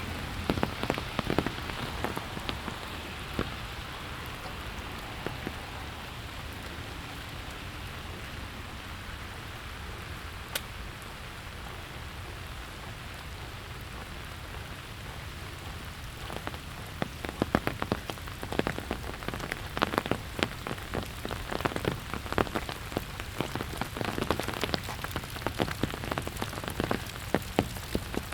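Steady rain falling, a soft even hiss with close drops ticking and pattering on surfaces. The close drops thin out in the middle and come back thicker and louder from a little past halfway.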